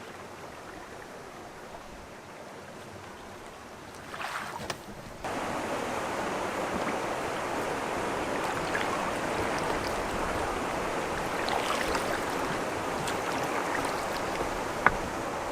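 Steady rushing of river rapids, cutting in abruptly about five seconds in after a quieter stretch, with a single sharp click near the end.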